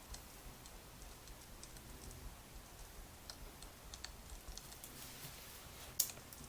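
Firewood fire crackling: faint, irregular pops and ticks over a low hum, with one louder snap about six seconds in.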